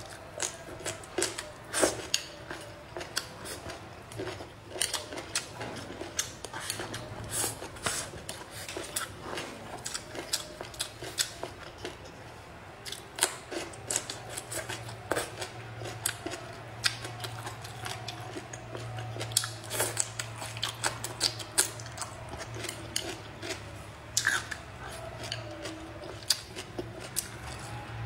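Close-miked eating sounds: a person biting and chewing crisp green vegetable stalks, a dense irregular run of sharp crunches and wet mouth clicks.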